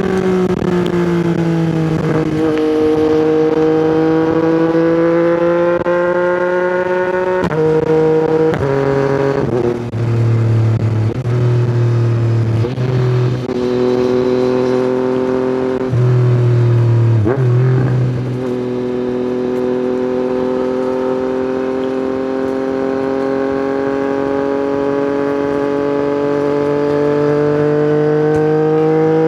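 Yamaha MT-09 three-cylinder engine through an Akrapovic exhaust, ridden under way. The pitch climbs slowly at first, changes in several abrupt drops and jumps through the middle as the rider shifts and rolls on and off the throttle, then climbs steadily again on a long pull.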